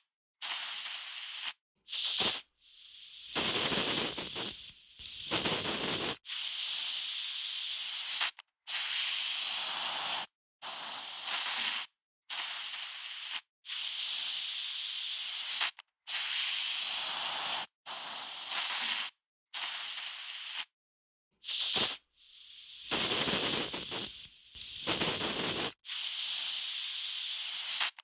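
Aerosol spray can spraying in repeated bursts of one to three seconds, each cutting off sharply, with a high, sharp hiss. A few of the bursts carry a fuller, lower rush.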